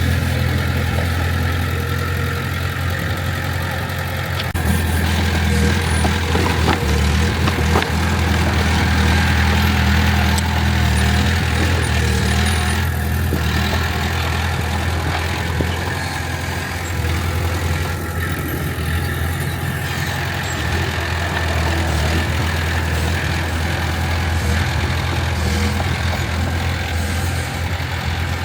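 Heavy diesel engine of earthmoving machinery running steadily, growing louder and fuller about four and a half seconds in, with a few light clanks between about six and eight seconds in.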